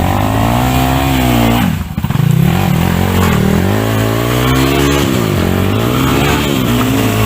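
Trail dirt bike engine revving hard, its pitch rising and falling several times, with a brief dip a little under two seconds in before it revs up again.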